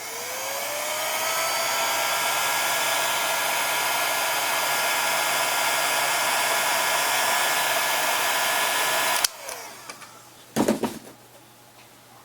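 Handheld hot-air blower switched on, its motor whine rising as it spins up over the first second or two, then running steadily while it heats the adhesive behind a device's back covers. It switches off suddenly about nine seconds in, followed by a couple of short knocks.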